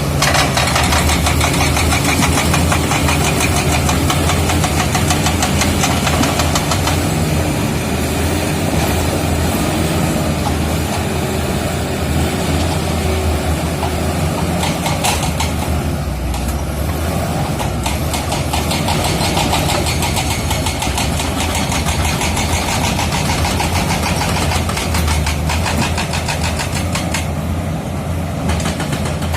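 Komatsu D85E-SS crawler bulldozer working, its diesel engine running steadily under load with dense rapid clanking from the steel tracks throughout.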